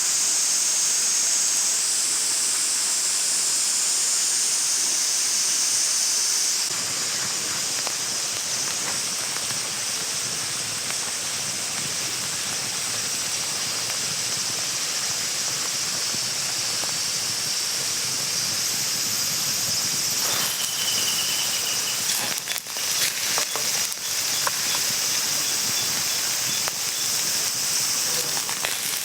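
Food sizzling in a frying pan over a campfire: a steady high hiss, with a run of sharp crackles and pops about two thirds of the way through.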